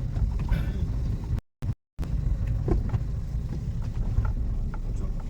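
Low, steady rumble of a manual car's engine and road noise heard inside the cabin while driving slowly in second gear, with wind buffeting the microphone. The sound cuts out completely twice, briefly, about a second and a half in.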